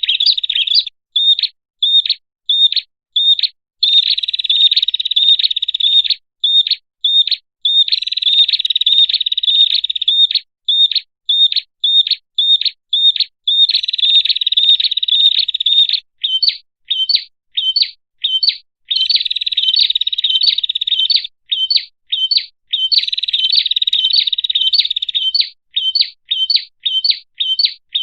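Prinia (prenjak) calls played as a bird-lure recording: sharp single chirps about twice a second, alternating with rapid chattering trills that last about two seconds each.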